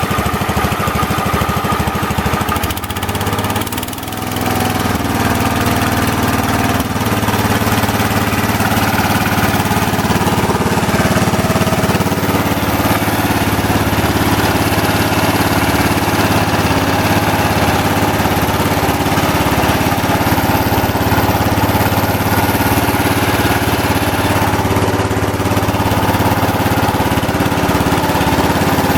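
Kohler K321 14 hp single-cylinder engine of a 1970 Wheel Horse GT-14 garden tractor running steadily. It drops off briefly about three seconds in, then picks up speed again.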